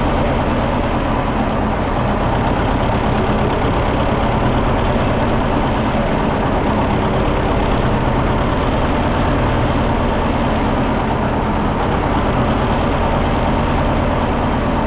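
John Deere 730 tractor's two-cylinder engine running steadily.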